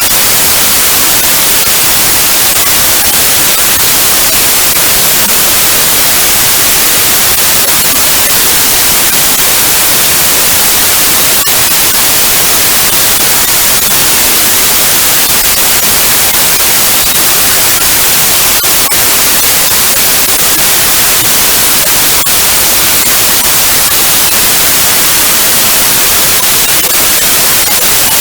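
Digitally generated white noise: a loud, steady, even hiss with no changes.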